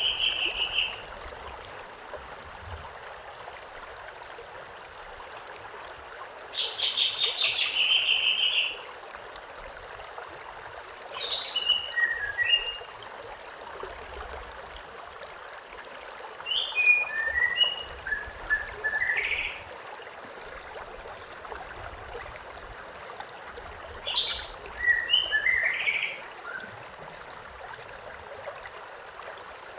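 Stream water running steadily, with a songbird singing five short phrases of chirps and whistles, one every five to seven seconds.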